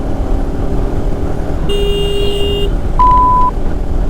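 Steady motorcycle engine and road rumble while riding, with a vehicle horn sounding for about a second, then a shorter, higher beep about a second later.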